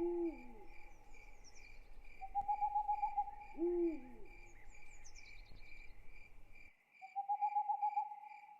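Night ambience of crickets chirping in a steady pulsing rhythm, with two short owl hoots that rise and fall, one at the start and one about three and a half seconds in. A pulsed trill repeats three times through it.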